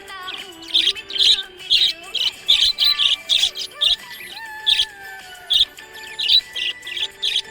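Pet budgerigars chirping happily: quick, bright, high chirps come several a second, over lower sliding whistles.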